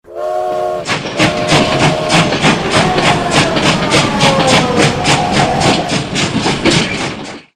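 A short whistle-like tone of several pitches, then a steady rhythmic chugging of about four beats a second with a faint tone slowly falling over it.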